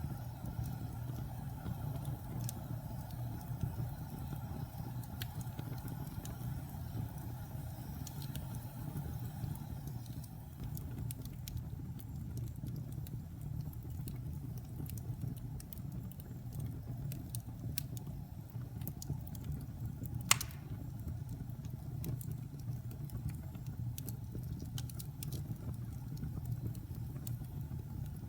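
Wood fire burning in a fireplace: a steady low rumble with scattered small crackles, and one sharp pop about twenty seconds in.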